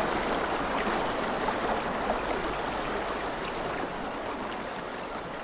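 Rushing river water: a steady splashing babble of flowing water that gradually grows fainter.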